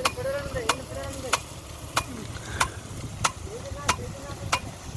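Automatic impact-driven rain gun sprinkler working, its swinging arm clacking sharply about one and a half times a second over a steady hiss of spraying water.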